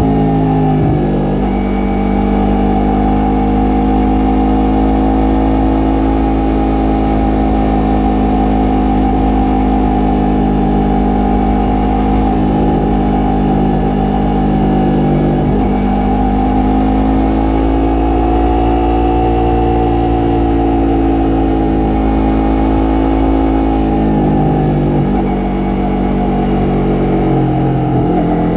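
Yamaha MT-03 parallel-twin engine and exhaust under way, the engine note rising and falling with the throttle, with several sudden changes in pitch.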